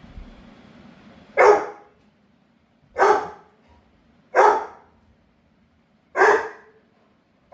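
Labrador retriever barking four times, single loud barks about a second and a half apart.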